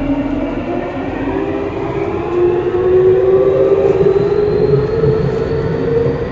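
Y500 series electric train accelerating: the traction motor whine climbs steadily in pitch over the wheels' rumble on the rails. It is heard from the gangway between cars.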